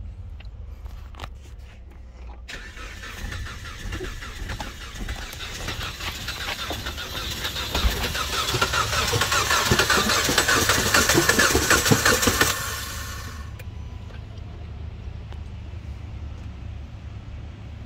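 Chrysler 2.4-litre Dual VVT four-cylinder engine cranking on its starter, with a jump pack on the battery, for about ten seconds, getting louder, then stopping abruptly. A low steady hum follows.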